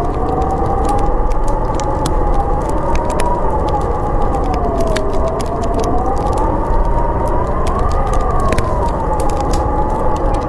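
Howling storm wind: a whistling tone that slowly wavers up and down over a steady rushing noise. Wood fire crackling, with frequent sharp pops throughout.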